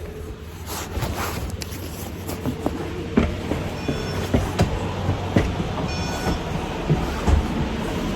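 Small city bus heard from inside: a steady low engine rumble with rattling, and scattered knocks and clicks throughout. Brief high tones sound twice, about four and about six seconds in.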